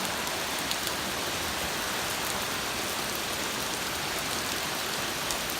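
Torrential rain pouring down, a steady dense hiss of heavy rain striking surfaces, with a few faint drop ticks.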